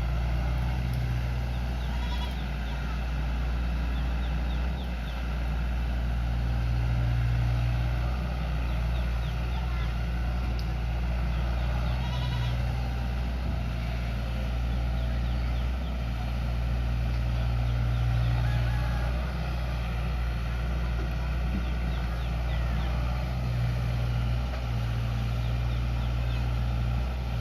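Heavy diesel engine running steadily at low revs, with a deep rumble that swells and eases a little now and then.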